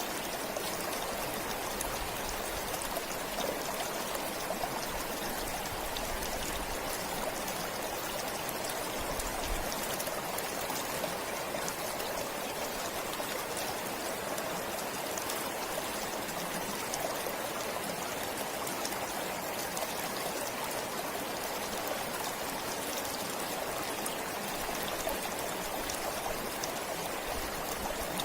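A forest stream flowing steadily, its water splashing and trickling over rocks in an even rush.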